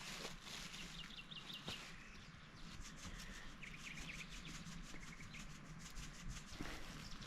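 Small birds chirping in quick runs of short high notes, twice, over repeated scraping and rubbing noises.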